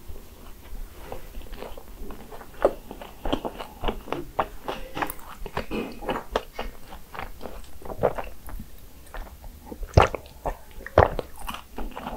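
Close-miked chewing of a crisp croffle (croissant waffle), its pastry crunching and crackling in quick irregular bites. Two louder crunches come near the end.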